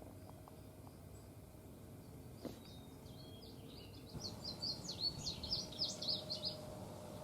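A songbird singing a rapid run of short, high notes, about eight a second, starting about four seconds in and lasting some two and a half seconds. A single sharp click comes about a second and a half before it.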